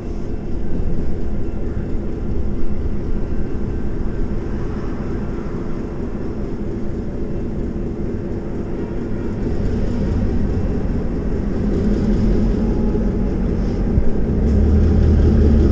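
Diesel train passing below: a steady rumble of the cars with the locomotive's engine running, its low hum growing louder about 14 seconds in.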